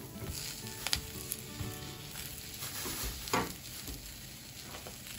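Chicken pieces and lotus root slices sizzling steadily in oil in a frying pan. Twice there is a light sharp knock, about a second in and again past three seconds, as slices are set down with chopsticks.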